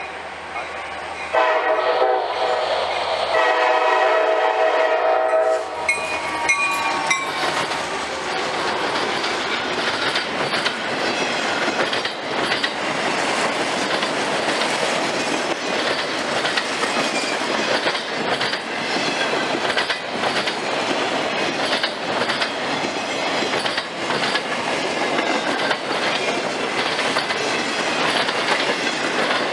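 CSX freight train blowing its horn for a grade crossing, the last blast cutting off about five and a half seconds in. The locomotive then goes by and the autoracks and boxcars roll past with a steady clickety-clack of wheels over the rail joints.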